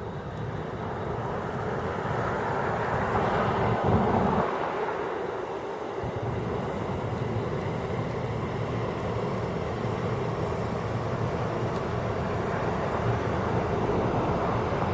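Steady outdoor rumble of passing vehicle noise that swells about three to four seconds in, then holds.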